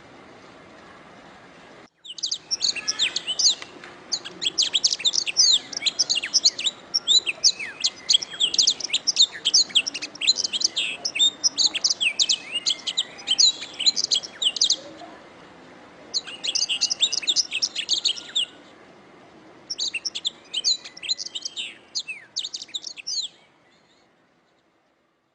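Canary singing: fast, high, rolling trills and chirps in three long phrases. The first, longest phrase starts about two seconds in, and the song stops about a second before the end.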